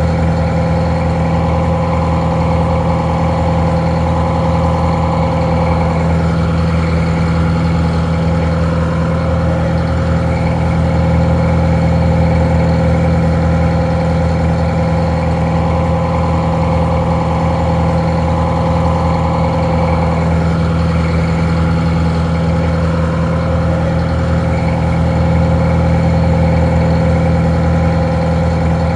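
Detroit Diesel 4-71 two-stroke diesel engine idling steadily, a constant low drone with no change in speed. The recording sounds a little muffled.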